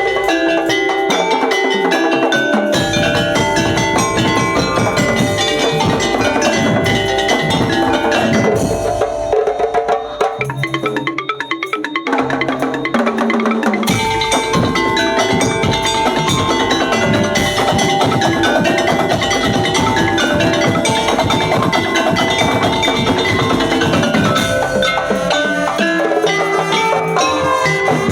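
Madurese traditional percussion music: gendang drums played with tuned mallet percussion carrying a melody. The low drum strokes drop out for a few seconds about a third of the way in, then come back in full.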